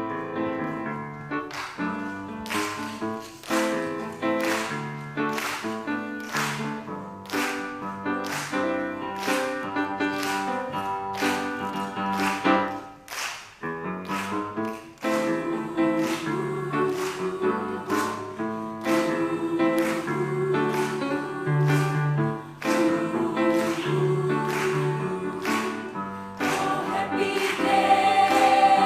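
Gospel-style musical introduction: instruments playing chords over a steady beat of sharp hits, with the choir's voices starting to come in near the end.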